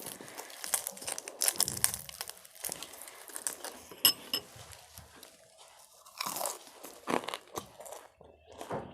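Close-up crunching and chewing of crisp food, irregular crackly bites, with one sharp ringing click about four seconds in.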